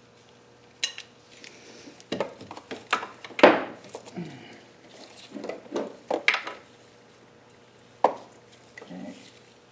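Metal hand tools clinking and knocking against steel engine hardware in irregular clusters, as engine mount bolts are worked loose; the loudest knock comes about three and a half seconds in.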